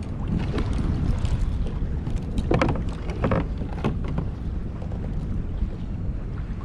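Water sloshing against a kayak on the open sea, with wind rumbling on the microphone and a few louder splashes between about two and a half and four seconds in.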